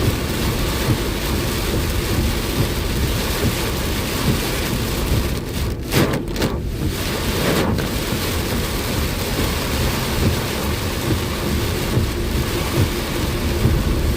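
Heavy rain pelting a moving car, a steady dense hiss and drumming with a low rumble underneath. The noise thins briefly about six seconds in and again near eight seconds.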